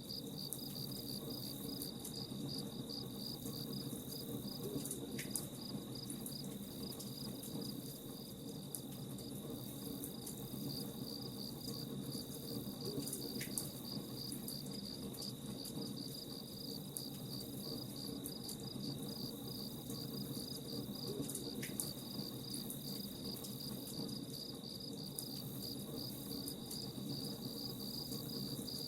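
Campfire crackling with scattered sharp pops under a steady, rapid, high-pitched chirping of crickets.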